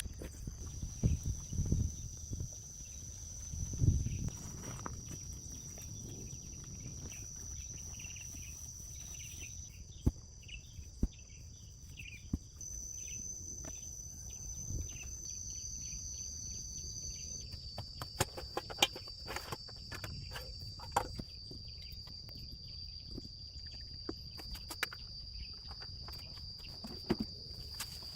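Steady high-pitched chirring of crickets or other insects, shifting pitch a few times, with scattered sharp knocks and a couple of low thuds, the loudest of them near the start.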